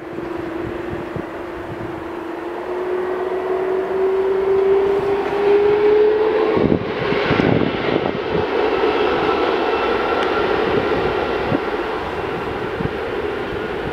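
Jet airliner engines passing on the runway: a loud, rushing roar with a whine that climbs slowly in pitch. The whine breaks off about seven seconds in, at the loudest point, and a higher whine follows as the jet goes by.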